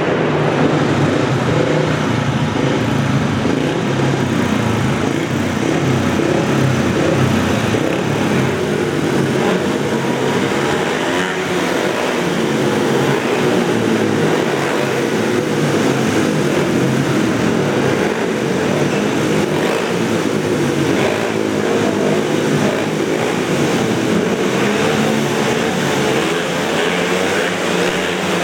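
Several speedway motorcycles racing together, their single-cylinder 500 cc engines revving up and down continuously, with the pitches of the different bikes overlapping and sweeping.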